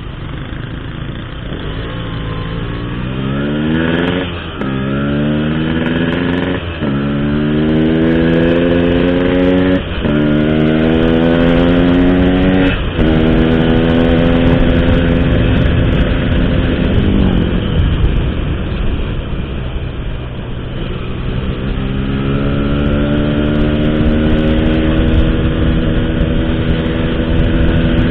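Motorcycle engine through an Altech C17 aftermarket exhaust, accelerating up through the gears with four brief breaks in the rising pitch as it shifts, then holding speed, easing off, and pulling up again near the end. A low, smooth exhaust note.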